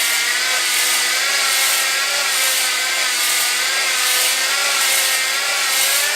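Hand drill spinning a ball (dingleberry) cylinder hone inside a small-block V8's cylinder bore, lubricated with WD-40. The motor runs at a steady, slightly wavering pitch over a scraping hiss that swells and fades about once a second as the hone is stroked in and out of the bore to cut a crosshatch pattern.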